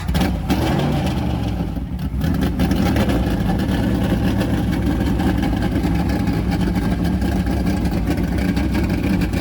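A motor vehicle's engine runs steadily and loudly, with a brief rise in pitch about half a second in.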